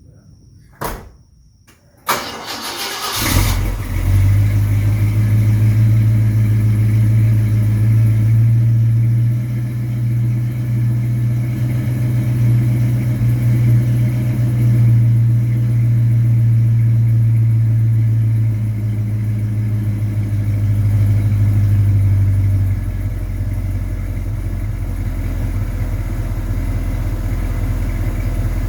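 A single click, then a car engine cranked and started about two seconds in, settling into a steady low idle that drops slightly quieter later on. The exhaust leak is one the owner has almost, but not quite, cured.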